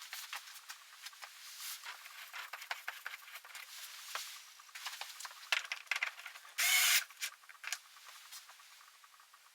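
Scattered light clicks and taps of small parts and tools being handled, with one short aerosol-like spray hiss about seven seconds in.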